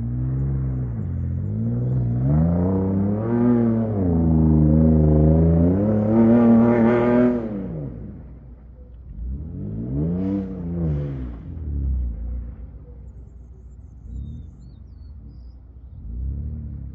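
Vehicle engine revving hard, rising and falling in pitch several times while driving in mud; after about eight seconds it eases off, with a few shorter revs near the end.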